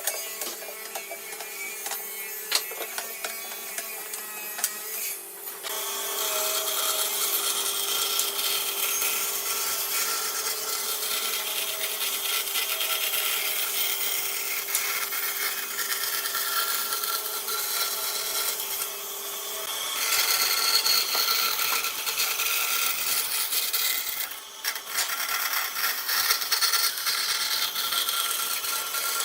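Wood being worked with a hand or power tool. There is light scraping and tapping for the first five seconds or so, then a steady, continuous rasping noise of abrasion or cutting, with a short break about 24 seconds in.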